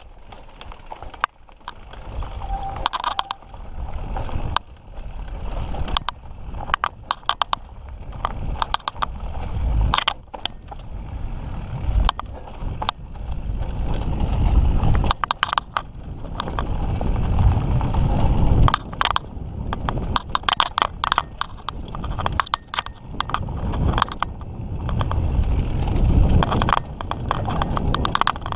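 Mountain bike ridden along a dirt trail, with the chain and frame rattling and clicking over bumps throughout. A low wind rumble on the microphone swells and fades.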